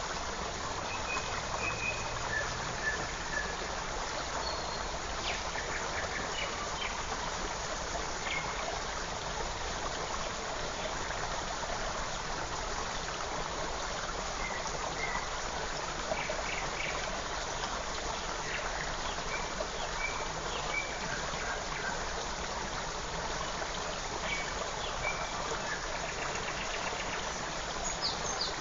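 A forest creek running steadily over stones, with short high bird chirps scattered over it.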